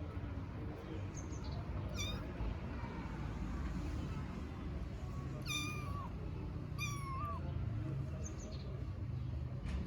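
Kittens meowing for their mother: a short high call about two seconds in, then two longer high-pitched meows about a second apart that drop in pitch at the end. A steady low rumble lies under them.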